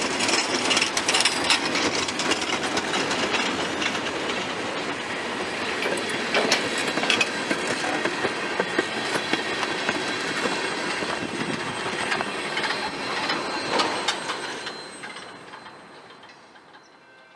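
Freight cars rolling past, their steel wheels clattering and clicking over the rails. The end of the train goes by and the sound fades away about fifteen seconds in.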